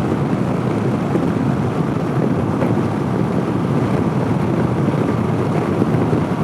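Wind rushing over the helmet-mounted microphone while riding at highway speed, with the 2014 Honda CB500X's parallel-twin engine running underneath; a steady, even noise throughout.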